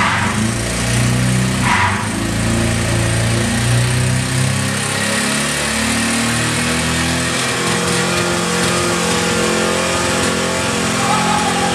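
Nissan Cherry's engine being revved hard, blipped up and down at first and then held at high revs from about halfway, while it is deliberately over-revved in an attempt to blow it up.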